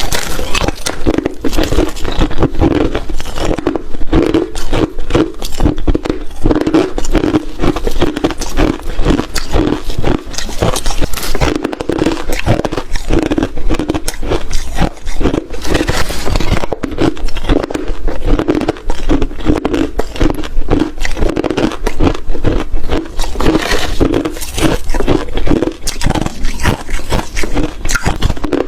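Ice being chewed and crunched close to the microphone: a steady, dense run of crisp crunches, several a second.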